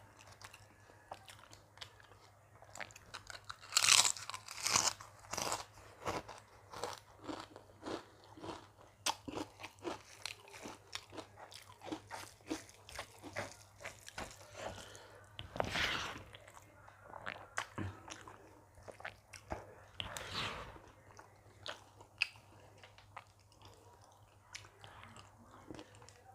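A person chewing a meal of dal, rice, mashed potato bharta and karela-chana curry close to the microphone: a dense run of short wet mouth clicks, with louder bites about four seconds in and again about two-thirds and four-fifths of the way through.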